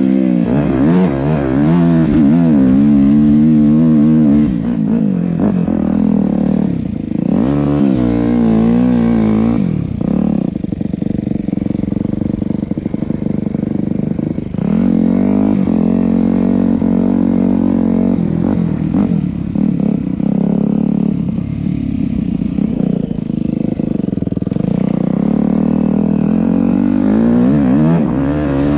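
Yamaha YZ250F's four-stroke single-cylinder dirt bike engine under way, its pitch rising and falling over and over as the throttle is opened and eased off.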